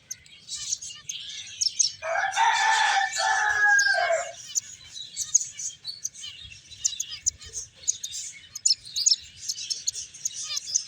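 Finches chirping continuously with quick high twitters. About two seconds in, a louder rooster crow lasts about two seconds and falls away at the end.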